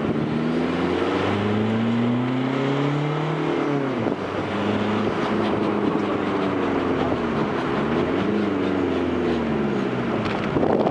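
Fiat Grande Punto's 1.9 turbodiesel engine pulling under acceleration: its pitch climbs, drops sharply about four seconds in at a gear change, then climbs again with another dip near eight seconds. A loud rushing hiss rises near the end.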